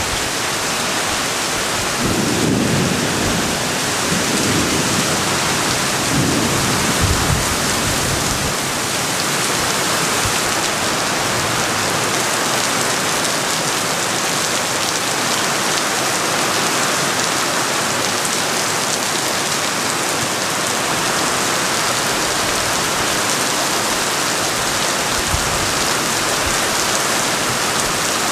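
Heavy rain falling steadily, a dense even hiss, with a few low rumbles between about two and eight seconds in.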